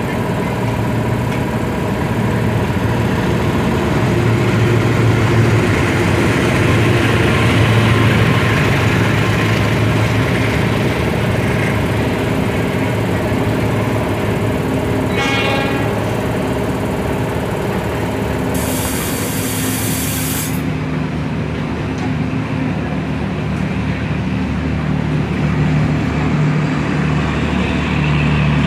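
Diesel-hauled passenger train passing through the station: a steady engine hum and the rolling of the coaches on the rails. A short run of rapid clicks comes about halfway, and a brief hiss about two-thirds of the way through.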